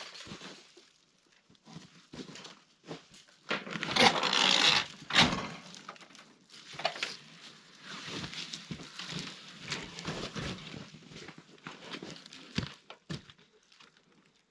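Footsteps crunching in snow with scattered knocks of material being handled, and a louder scraping shuffle about four seconds in.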